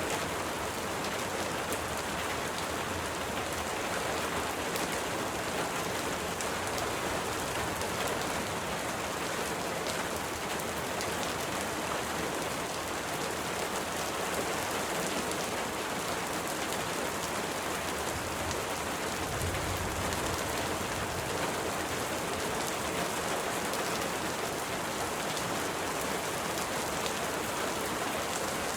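Steady rain falling, an even hiss with scattered fine drop ticks. A brief low rumble comes about two-thirds of the way in.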